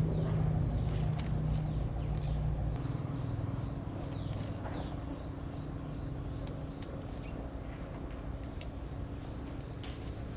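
Insects chirring in one steady, high-pitched drone. Under it, a low rumble fades away over the first few seconds, and there are a few faint clicks.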